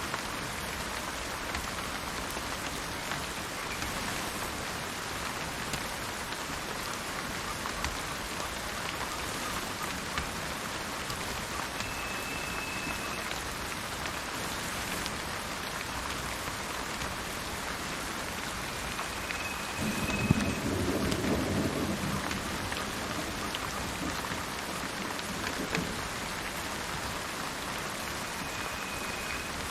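Steady rain falling, with a low rumble of thunder about two-thirds of the way through. Three short, single-pitched bird whistles sound over the rain, spaced several seconds apart.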